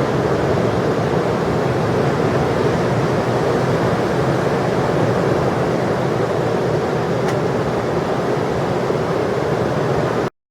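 Steady roar of heavy ocean surf, an even rushing noise that cuts off abruptly near the end.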